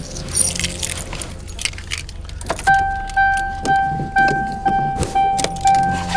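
Keys jangling and clinking, then a car's electronic warning chime starts about two and a half seconds in, repeating a single steady tone about twice a second, each beep fading away.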